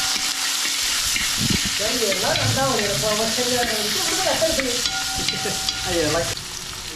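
Food sizzling in hot oil in a cooking pot as it is stirred, a steady frying hiss.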